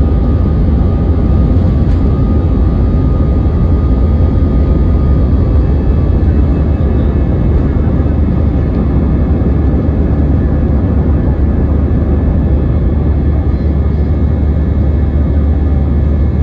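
Steady low rumble of jet engine and airflow noise inside the cabin of an Airbus A321 airliner, with a faint steady whine that fades away about six seconds in.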